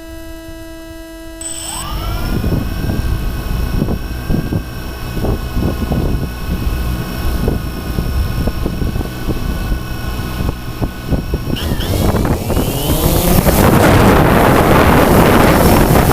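DJI Phantom 2 quadcopter's motors spinning up to a steady multi-tone whine, with wind buffeting the microphone. About twelve seconds in, the whine rises in pitch and the sound turns much louder and rougher as the motors throttle up.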